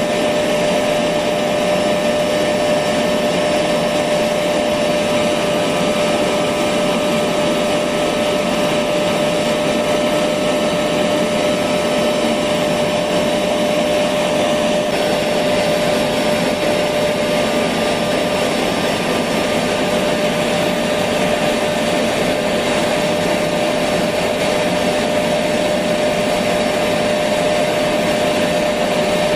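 Electric vacuum cleaner running steadily: an even rush of air with a constant motor tone, unbroken throughout.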